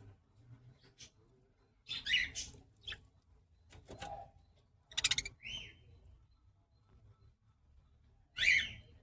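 Budgerigars chirping in short separate calls: one about two seconds in, a quick chattering call about five seconds in, and another near the end.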